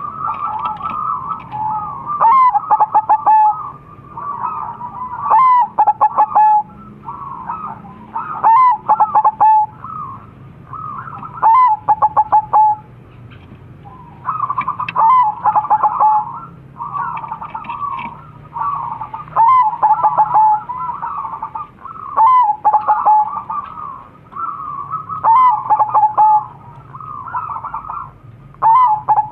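Crossbred perkutut (zebra doves) cooing, several birds calling over one another. Loud, rolling coo phrases repeat about every three seconds.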